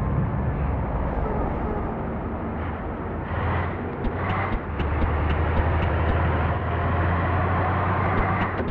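Scania bus's diesel engine running with a steady low hum that grows stronger about three seconds in, with faint, rapid, evenly spaced ticking from about four seconds in.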